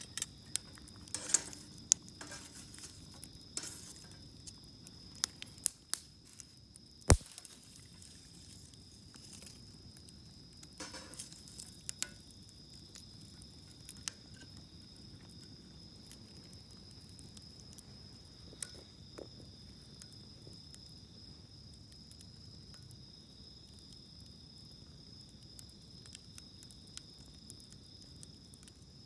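Wood campfire crackling, with scattered sharp pops, most of them in the first half and the loudest about seven seconds in. Under it runs a steady, high, shrill insect trill.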